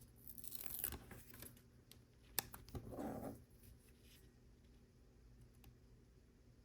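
Faint handling of Lego pieces: soft rustling and scraping for the first second or so, one sharp plastic click about two and a half seconds in, a short soft rustle just after, then near silence.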